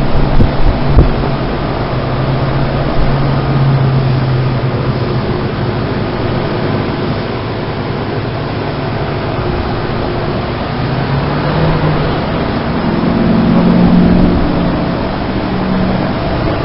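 Outdoor heat pump units running in heat mode: a steady rush of condenser fan air with a low compressor hum. The hum shifts higher in pitch and swells about two-thirds of the way through, with a few knocks in the first second.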